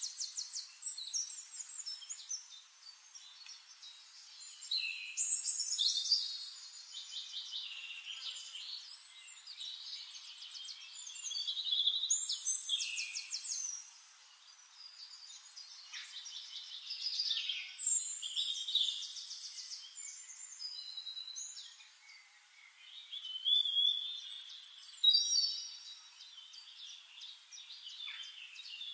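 Several birds singing at once: high-pitched chirps and fast trills of repeated notes overlapping in phrases that swell and fade.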